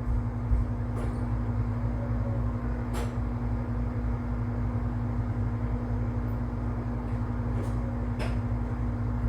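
Steady hum of a running household appliance, with a constant low drone. A few faint clicks come through it, at about one second, three seconds and eight seconds in.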